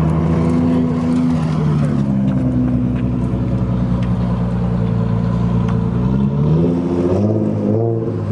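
Car engine running steadily, then accelerating with rising pitch from about six seconds in. The pitch drops once near the end, as at a gear change, then climbs again.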